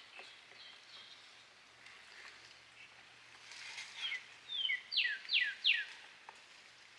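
A songbird singing: a few faint chirps, then about four seconds in a short run of clear down-slurred whistles, the last three quick and loudest.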